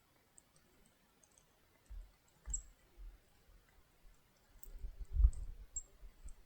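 Small songbirds giving brief, very high, thin chip notes a few times, among faint scattered clicks. Dull low thumps come several times, loudest about five seconds in.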